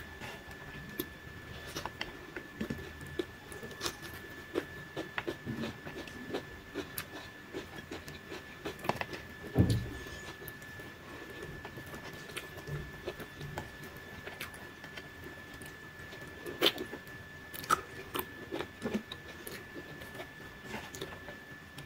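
Someone eating rice and chicken curry by hand: chewing and small mouth sounds with scattered light clicks, over a faint steady high-pitched whine. A single thump about halfway through is the loudest sound.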